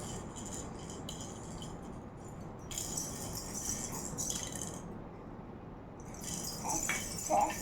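A baby's toy rattle shaken in three bursts of bright jingling, one at the start, one about three seconds in and one near the end.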